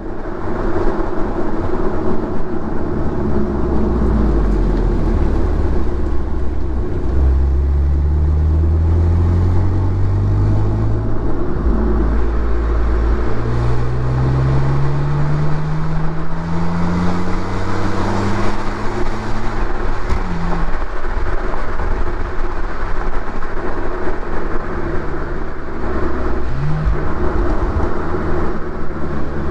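BMW Z4 (E85) roadster's engine pulling through the gears: the revs climb steadily and drop back at each gear change, several times, over steady road and wind noise.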